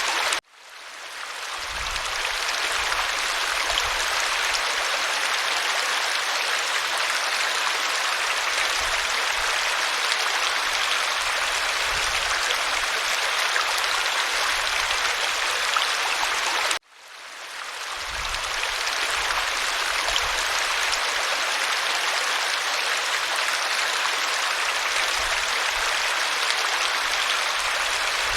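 Waterfall rushing steadily. The sound cuts out abruptly twice, about half a second in and again around seventeen seconds in, and fades back up over a second or two each time: the seams of a looped recording.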